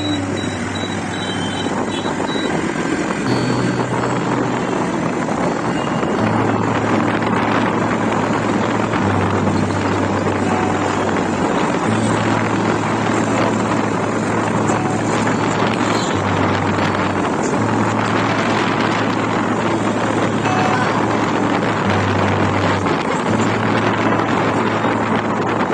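Steady road-vehicle noise: a constant rushing sound over a low engine hum that comes and goes in stretches of a few seconds.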